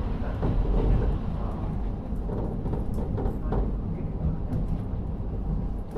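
Cabin running sound of a KIHA40 diesel railcar with an N-DMF13HZB diesel engine: a steady low rumble of the engine and the wheels on the rails, with faint scattered clicks.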